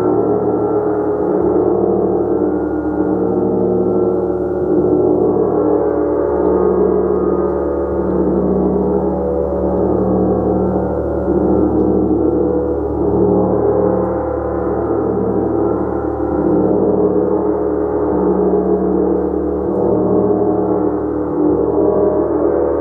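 Gong played continuously, a dense sustained wash of many overlapping tones that swells and ebbs gently without pause.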